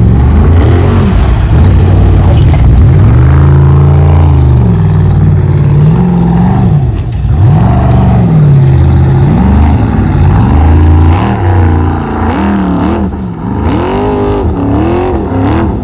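A Formula Offroad race truck's engine revving hard, its pitch rising and falling again and again as the throttle is worked on the climb. It runs loud, easing somewhat for a few seconds past the middle.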